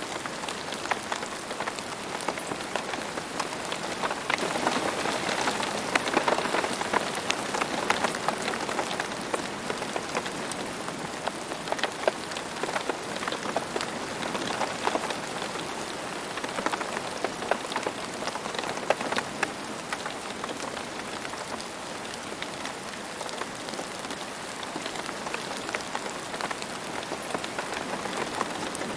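Steady rain falling on a surface, a constant hiss with many separate drops ticking through it, a little heavier a few seconds in.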